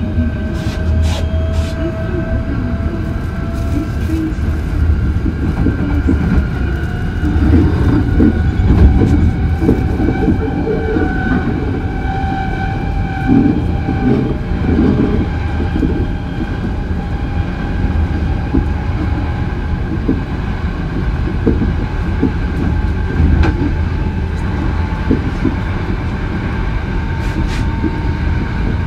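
Hankyu 8000 series electric train running between stations: a steady rumble of wheels on rail, with a whine that climbs slowly in pitch.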